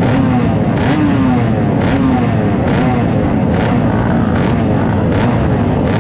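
Small two-stroke single race-bike engine (Honda MB100) running on the start grid, its throttle blipped over and over so the pitch rises and falls about once a second, with other small bike engines running around it.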